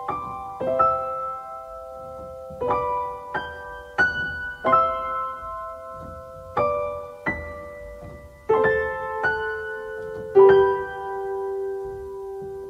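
Solo piano playing a slow introduction: chords struck one after another, each left to ring and fade, with a last low chord held and dying away near the end.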